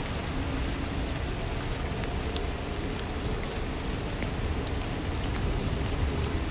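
Steady rainfall, an even hiss of rain with scattered light ticks of drops.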